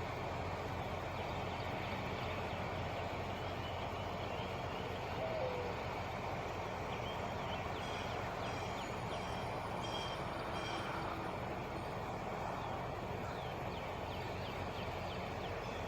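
Truck engine idling with a steady low hum. Faint high chirps come and go, and a short falling squeak sounds about five seconds in.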